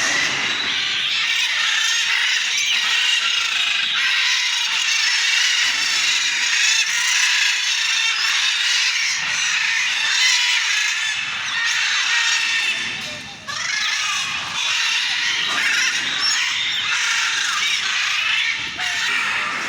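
Dense, continuous chorus of many small aviary birds chirping and chattering at once, with a brief lull about two-thirds of the way through.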